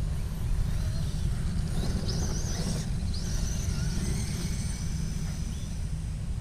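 Electric motor of a hobby-grade RC car whining in rising glides as it accelerates, heard a couple of times in the middle, over a steady low rumble from wind on the microphone.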